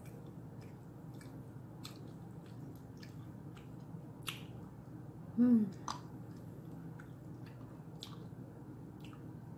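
Close-miked mukbang eating: soft chewing and mouth smacking with scattered small clicks as food is eaten by hand, over a low steady hum. About five and a half seconds in, one brief, loud vocal sound from the eater.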